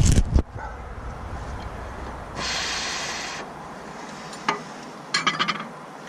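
A person blowing breath onto cold fingers to warm them: a hissing exhale lasting about a second, then a sharp click and a brief rustle of hands rubbing.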